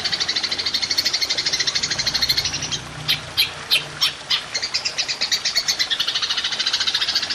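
Belalang emas (golden grasshopper) stridulating in a fast, continuous, high-pitched pulsing trill. About three seconds in, the trill breaks into five separate sharp chirps, then picks up again.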